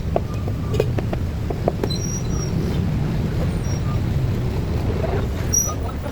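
Steady low rumble of passing vehicles, with a few sharp clicks in the first two seconds and faint short high chirps scattered through.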